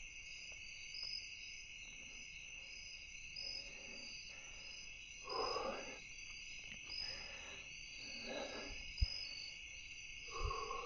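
Steady evening insect chorus with a faint chirp repeating about twice a second. Four short, low calls stand out over it, about three seconds apart.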